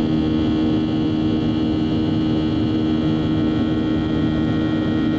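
Boeing 737's turbofan engines running steadily: a constant drone with several steady tones in it.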